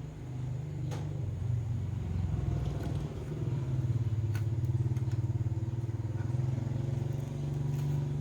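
A low, pulsing engine rumble, like a motor vehicle running close by, growing louder toward the middle and easing near the end, with a few light clicks.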